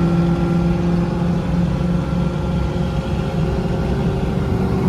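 Straight-piped 4.6-litre two-valve V8 of a New Edge Ford Mustang GT running loud and steady. A deep exhaust drone holds one pitch, then turns rougher and more broken about a second and a half in.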